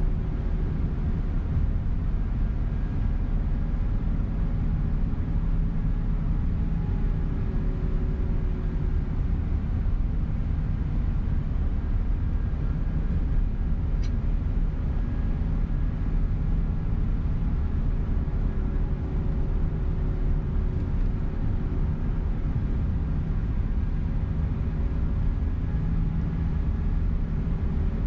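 Tour coach bus driving, heard from inside the cabin: a steady low rumble of engine and road noise with faint steady tones over it.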